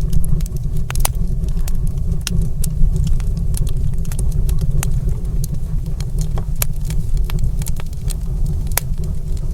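Wood fire crackling in a fireplace: frequent irregular sharp pops and snaps over a steady low roar.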